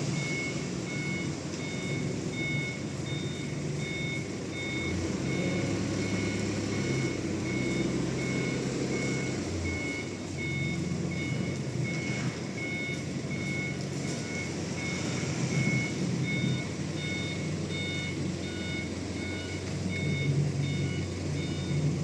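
Reversing alarm of a heavy diesel machine beeping steadily and evenly over its engine running as it manoeuvres.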